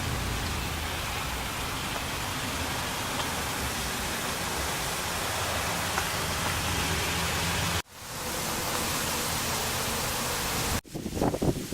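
Steady rushing hiss with a low hum under it. It cuts out abruptly about eight seconds in, returns, and cuts out again near the end, when louder uneven sounds take over.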